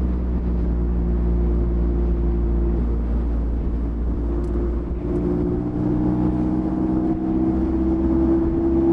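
Mazda MX-5's 1.5-litre four-cylinder engine running steadily at a relaxed cruise. The engine note dips about three to five seconds in, then rises gradually in pitch as the car picks up speed.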